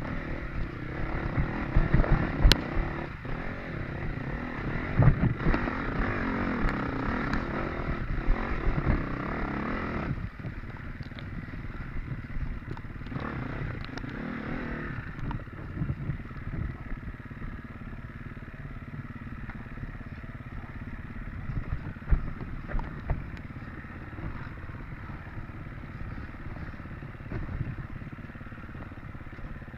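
Dirt bike engine running under a rider's control on rough off-road terrain, with scattered knocks and clatter. It is louder and busier for the first ten seconds or so, then drops to a lower, steadier level.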